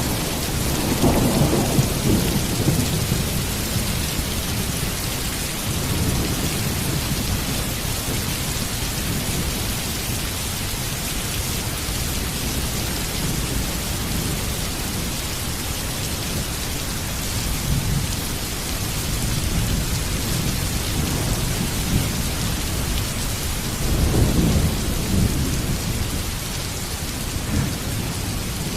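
Heavy rain falling steadily. Low thunder rumbles just after the start, and again about 24 seconds in.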